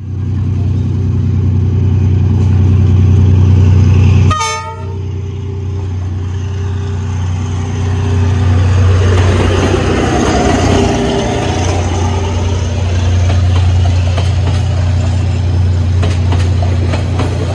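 Diesel passenger train running past, its locomotive engine making a steady low drone, with a short horn-like tone about four seconds in and the sound of the train passing a few seconds later.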